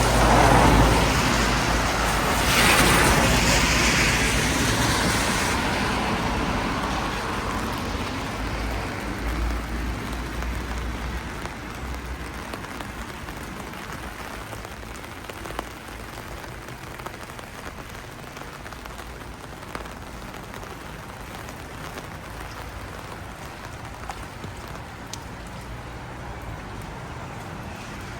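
A car passes on a wet street, its engine and tyre hiss loud in the first few seconds, then fading away over about ten seconds. Steady rain is left, with now and then a single drop tick.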